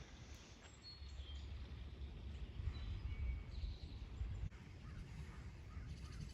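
A few faint, short bird chirps over a steady low rumbling outdoor noise as a thunderstorm approaches.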